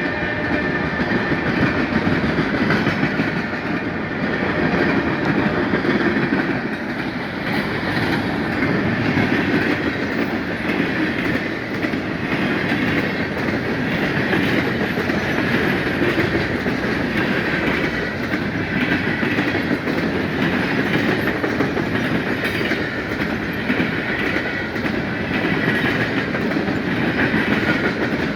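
A freight train's cars rolling steadily past, the wheels clicking over the rail joints.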